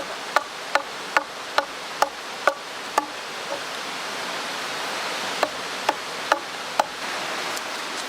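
A quick series of sharp, short ringing strikes, about two or three a second, that stop after about three seconds and come back as four more near the end, over the steady rush of a mountain stream.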